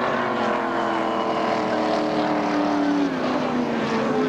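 Racing powerboat engine running hard, its pitch sliding slowly down and dropping a step about three seconds in.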